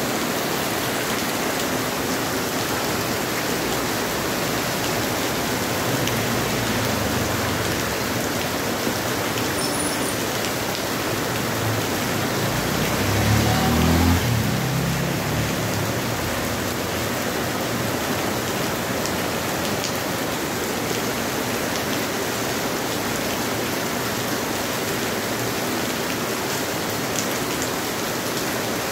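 Heavy rain pouring steadily, an even hiss of rain beating on the street and surfaces. About halfway through, a low rumble swells and fades over a few seconds.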